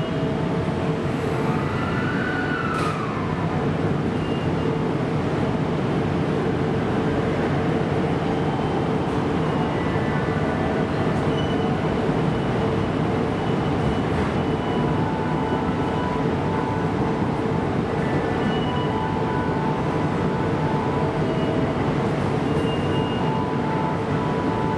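Sotetsu electric train running through a station platform: a steady rumble with a constant hum, and short high tones that come and go throughout.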